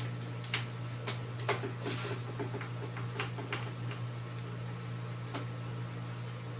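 A scatter of light clicks and scrapes from small objects being handled on a repair bench, mostly in the first few seconds, over a steady low electrical hum.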